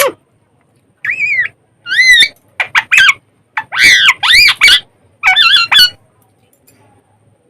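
Pet parrot calling: about five loud, shrill calls with pitch that bends up and down, the longest about four seconds in.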